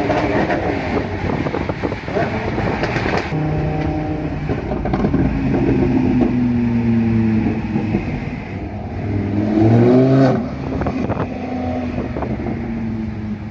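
Lamborghini Huracán LP610-4's V10 with a Capristo exhaust running at low speed, its pitch shifting up and down. It gives a short rising rev about nine to ten seconds in, the loudest moment.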